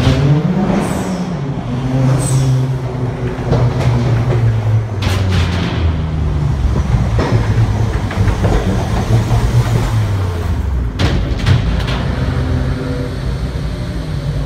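Car engines revving and running as cars drive through a concrete tunnel, the exhaust note echoing off the walls. The pitch climbs at the start, and there are two short sharp bursts, about five and eleven seconds in.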